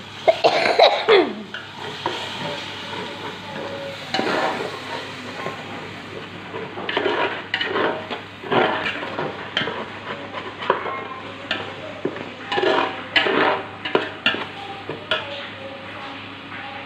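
A spoon or spatula stirring and scraping spices in a frying pan, in uneven strokes over a steady sizzle of frying. A louder scrape with a falling pitch comes about a second in.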